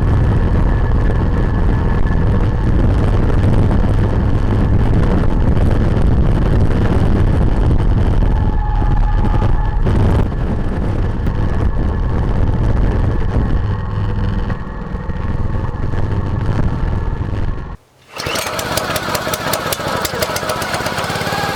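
Small gasoline engine of a log splitter running steadily. It cuts out abruptly for a moment near the end, then runs on with a clear rapid firing beat.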